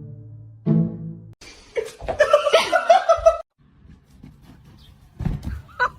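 A few sustained musical notes, then about a second and a half of loud, high-pitched laughter.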